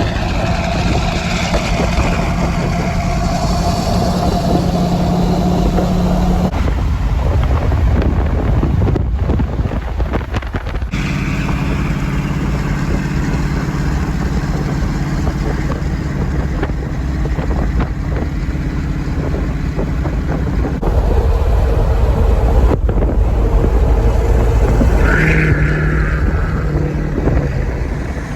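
Vehicle engine running with road noise while driving: a steady low drone that shifts in pitch a few times as the speed changes.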